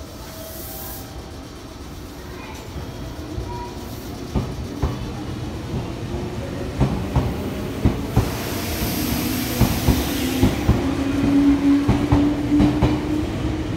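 Meitetsu 5000 series electric train pulling out of the station, its traction motors whining in a slowly rising tone as it gathers speed. The wheels click over the rail joints faster and faster, and the sound grows louder throughout.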